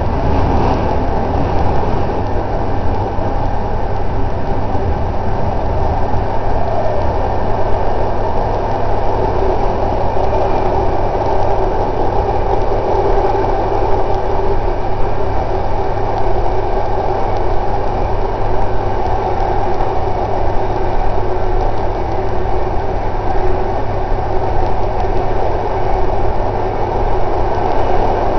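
Passenger train running at steady speed, heard from on board: a continuous low rumble of wheels and running gear.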